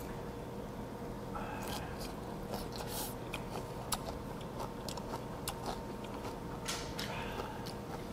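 A person chewing a mouthful of raw baby icefish and vegetables, with scattered small wet clicks of the mouth over a faint steady hum.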